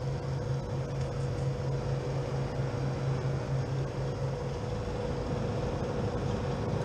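Refrigeration condensing unit running: a steady mechanical hum with a steady mid-pitched tone over it.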